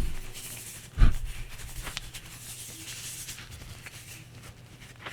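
Cloth rubbing on the steel slide of a 1911 pistol as it is wiped clean, with one sharp knock about a second in as the slide is handled. A faint steady hum runs underneath.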